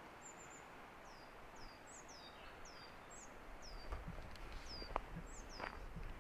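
A small bird calling over and over: short, thin, high notes that each fall in pitch, about two a second. Footsteps on the trail start about four seconds in.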